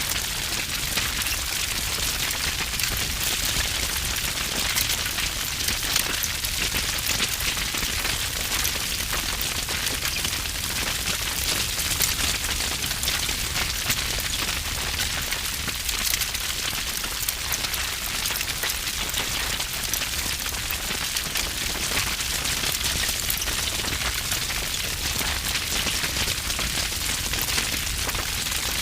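Wood fire burning with heavy crackling: dense, constant pops and snaps over a low rumble.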